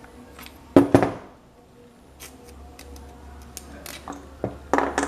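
A few knocks and clinks of parts and tools being handled on a workbench. The loudest is a pair of knocks about a second in, followed by lighter ticks and a cluster of clinks near the end.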